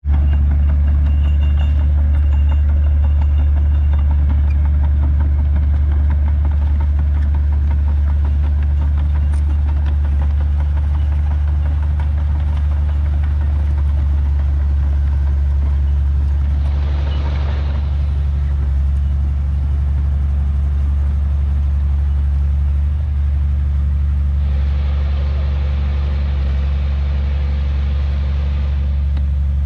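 Heavy diesel earthmoving engine running with a steady low drone. Twice it is joined by a stretch of hissing noise: briefly just over halfway through, then for several seconds near the end.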